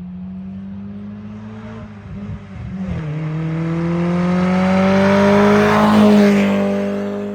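Classic car engine running, revving up as the car approaches, loudest about six seconds in and then fading as it passes by, over a steady engine hum.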